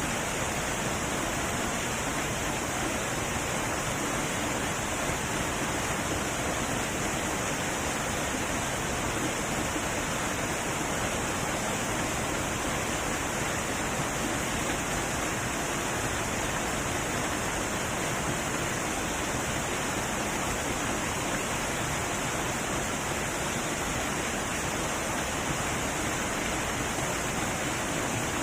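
Heavy waterfall: a steady, even rush of falling water.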